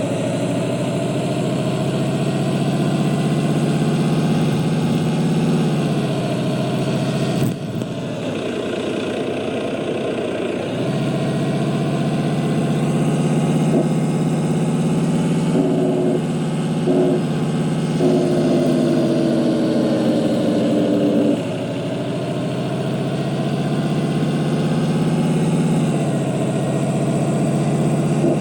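Volvo truck's diesel engine running under way, its note climbing slowly and then dropping back about three times, as with gear changes. There is a sharp knock about seven seconds in.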